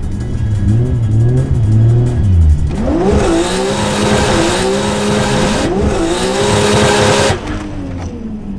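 Car engine revving up and down. From about three seconds in, loud tyre squeal joins it, as in a drift, and it cuts off abruptly about seven seconds in.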